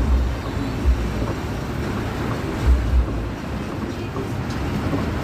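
Inside a moving bus: a steady low rumble of engine and road noise, with a few low thumps.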